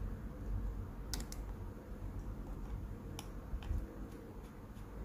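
Small hand tools clicking and tapping against the parts of an iPhone 4S being taken apart. There are a handful of light, sharp clicks: two close together about a second in, and a couple more past three seconds. They sit over a low background hum.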